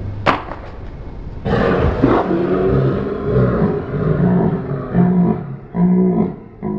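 Loud roaring growls in several pulses, with a sharp crack just before them.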